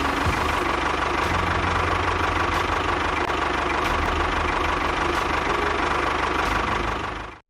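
Small engine running steadily, then fading out quickly just before the end.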